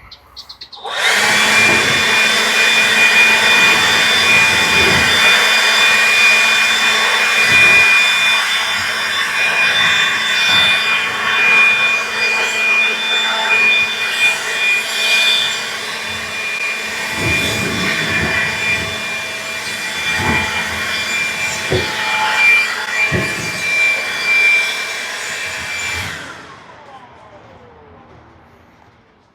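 DeWalt cordless electric blower starting about a second in and running steadily with a high whine, blowing dirt off metal roof panels, with a few brief knocks along the way. It shuts off near the end, its motor winding down in a falling whine.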